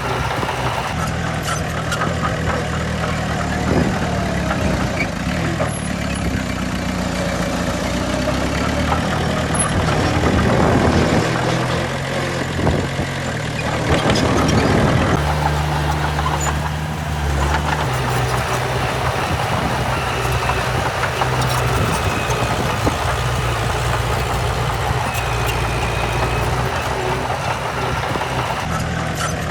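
Heavy diesel engines of earthmoving machines, a bulldozer and a dump truck, running steadily under working load. The engine note shifts and rises briefly about ten seconds in and again around fourteen seconds.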